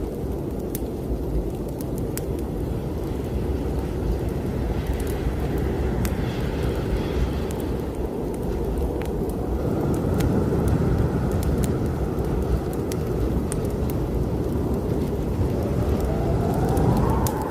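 Blizzard wind blowing in gusts, a deep rushing rumble that swells twice, with a thin whistling howl rising near the end. Sharp pops and crackles of a wood fire burning in a fireplace are scattered through it.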